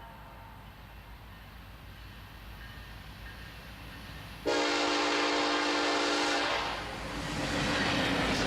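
Low rumble of a freight train's diesel locomotive, then about halfway in its air horn sounds loudly and suddenly: one long blast, a brief drop, and another blast beginning near the end.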